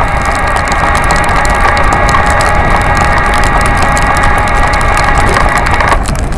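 Busetti Vortex electric bike's motor whining at a steady pitch under way, over rumbling, crackling wind and road noise; the whine cuts off suddenly near the end.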